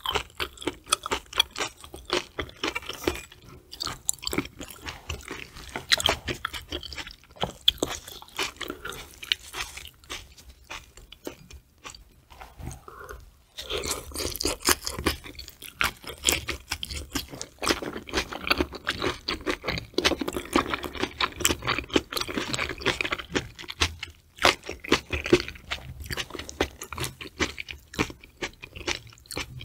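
Close-miked chewing of raw tuna sashimi: many short, sharp mouth clicks, with a brief lull about twelve seconds in.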